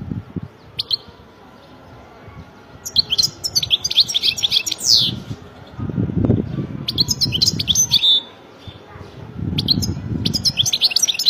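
European goldfinch singing: bursts of quick, high, twittering notes with fast gliding trills, in three phrases separated by short pauses. A low rumbling noise sits under the song at times.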